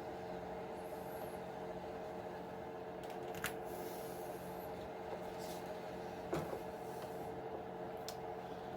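A steady electrical or mechanical hum at an even pitch, with a few light clicks of small parts being handled, the clearest about three and a half and six seconds in.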